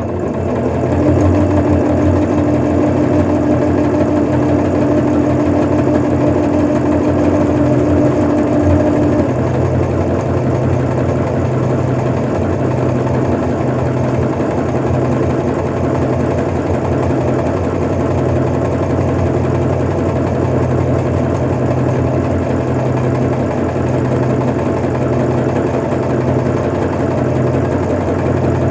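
Portable electric sewing machine running steadily with the pedal held down, stitching a one-step automatic buttonhole with the buttonhole foot. A steady higher hum rides on top for about the first nine seconds, then drops away.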